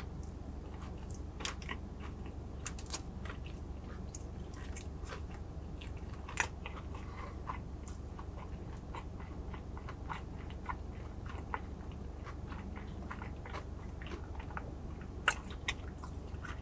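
A person chewing a mouthful of fried chicken sandwich with the mouth closed: many small, irregular wet clicks, the sharpest about six seconds in and twice near the end, over a steady low hum.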